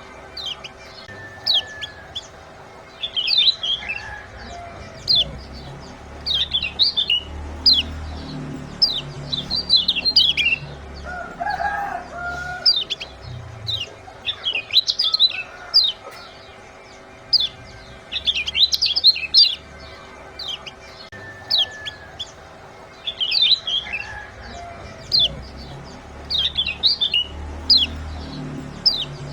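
Kecial kuning (lemon-bellied white-eye) giving bursts of sharp, high 'ciak' chirps, a rapid cluster every two to three seconds, played as a repeating bird-lure track. A faint steady hum runs underneath.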